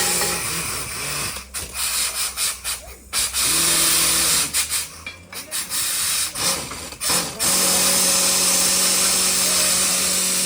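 Mini borewell drilling rig at work: a steady hiss of air with a low machine hum that cuts in and out, then holds steady from about seven and a half seconds in.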